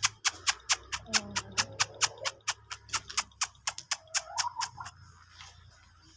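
Rapid, evenly spaced clicking, about five clicks a second, which stops just under five seconds in, over a low hum.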